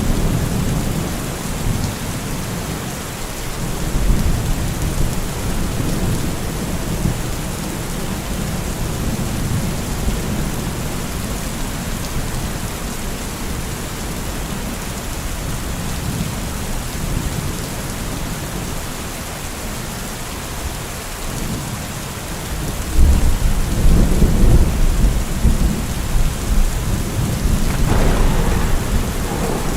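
Steady rain with rolling thunder; a louder, longer thunder rumble sets in about three-quarters of the way through.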